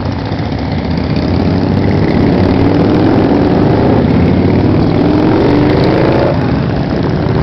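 Motorcycle engines running close by, growing louder about a second in as one bike accelerates with its engine note rising in pitch; the rising note breaks off a little after six seconds.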